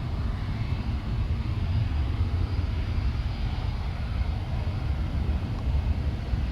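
Jet airliner engines heard as a steady, low rumble with no distinct events.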